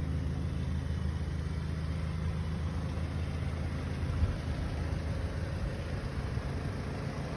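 Car engine idling with a steady low hum. A single light knock comes about four seconds in.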